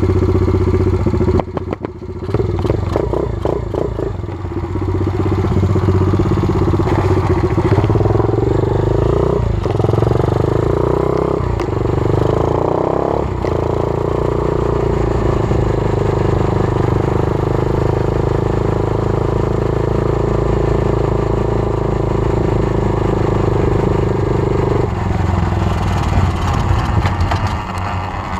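A 120cc pit bike's single-cylinder four-stroke engine under way. The revs dip about a second and a half in, then climb through three quick upshifts, each a rising pitch cut off by a sudden drop. The engine holds a steady pitch for about ten seconds, then drops off and revs unevenly near the end.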